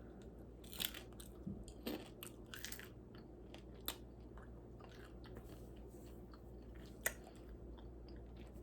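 A person chewing and crunching two miracle berries: soft crunches and mouth clicks, busiest in the first three seconds, with a sharper click about seven seconds in.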